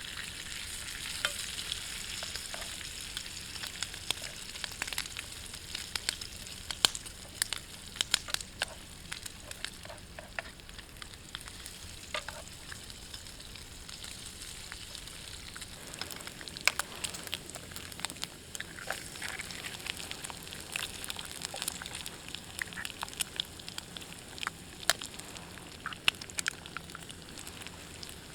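Food frying in a pan over a campfire: a steady sizzle with frequent irregular pops and crackles.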